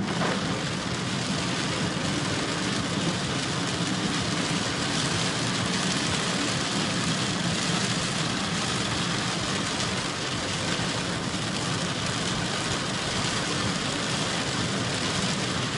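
Steady noise heard from inside a moving car in a heavy downpour: rain on the car and tyres on the waterlogged road, with the car's engine running low underneath.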